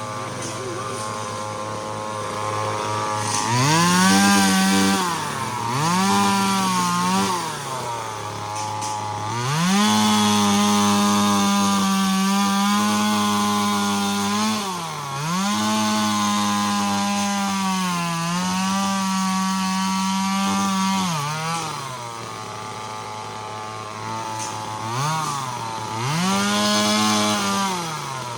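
Chainsaw idling, then revved up and dropped back to idle about six times while cutting through a tree, the longest cut held for about five seconds.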